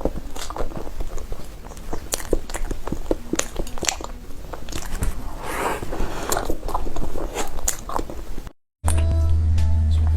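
Close-miked eating of bear cake: biting and chewing, wet and crunchy, with many small clicks. It cuts off abruptly near the end, and music with a deep, steady bass begins.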